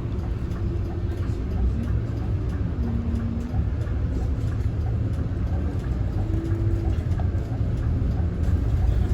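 Scania Citywide city bus running, heard on board: a steady low engine and road rumble, with a few brief higher tones over it.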